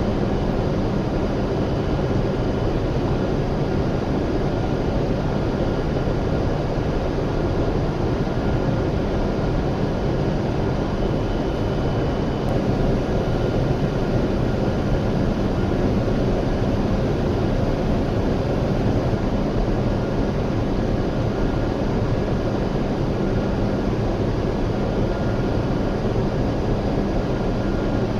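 W7 series Shinkansen running at steady speed, heard inside the cabin: a constant rumble and rush of wheels and air with a faint steady hum.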